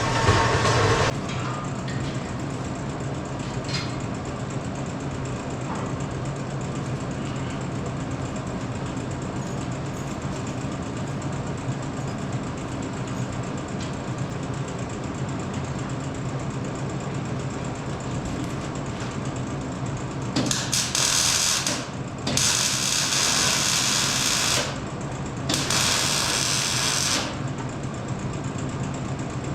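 Steady low mechanical hum of shop machinery, with three loud hissing bursts from a power tool about two-thirds of the way in, each one to two and a half seconds long.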